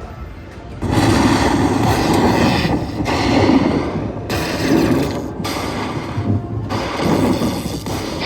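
Slot machine sound effects playing loudly as dense booming rumbles. They come in several long stretches separated by brief breaks.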